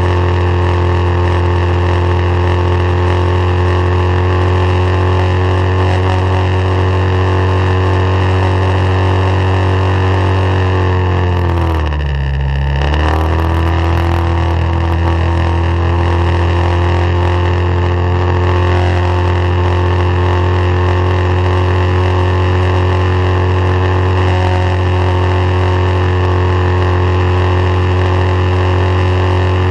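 Mercury 9.9 hp outboard motor running at steady high revs. About midway the revs drop briefly and climb back up as the throttle is eased and reopened.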